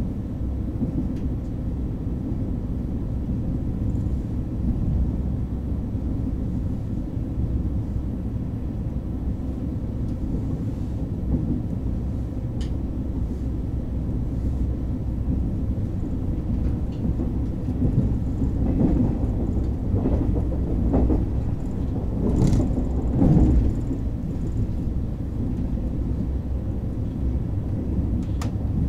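KTX train running, heard from inside the passenger car: a steady low rumble, with a short cluster of knocks and clatter about two-thirds of the way through.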